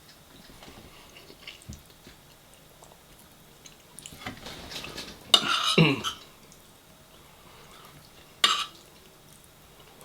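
A person eating: quiet chewing and light clinks of cutlery on dishes, with a louder mouth sound about five and a half seconds in that falls in pitch over about half a second, and a short sharp noise about eight and a half seconds in.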